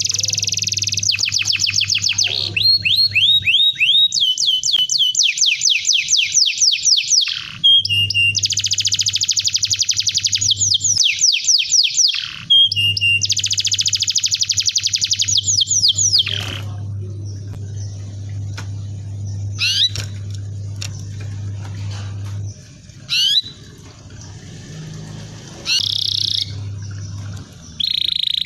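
Domestic canary singing long, rapid trills of evenly repeated high chirps, phrase after phrase with brief pauses. The second half is sparser, with scattered single chirps and whistles, and a steady low hum lies under much of it.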